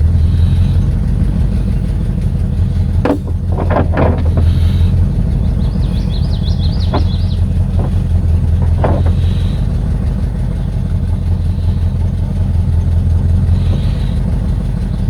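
Vehicle engine idling with a steady low hum, with a few short knocks around three to four seconds in and two more a little later.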